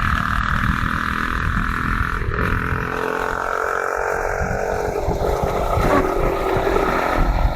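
Motorcycle engine running during a ride, with heavy wind buffeting the microphone.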